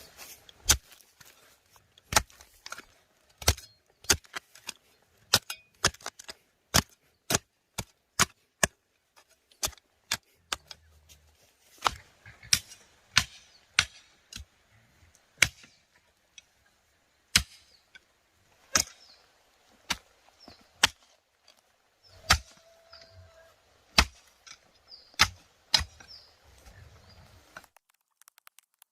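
Repeated sharp chopping strikes of a blade, about one or two a second at an uneven pace, stopping shortly before the end.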